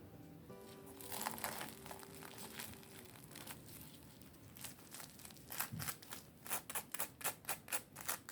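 Crinkling, crackling handling noise, then a run of quick, even clicks about three to four a second in the second half. Background music fades out in the first few seconds.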